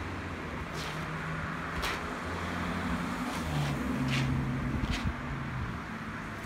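A motor vehicle's engine running, a low hum that shifts up and down in pitch and fades about six seconds in, with a few short swishes over it.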